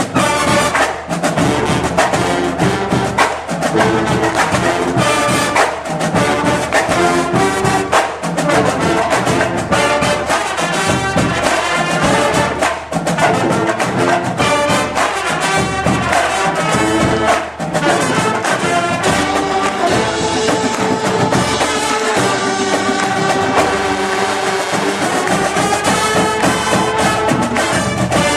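Marching band playing: trumpets and trombones carry the tune over drums keeping a steady beat.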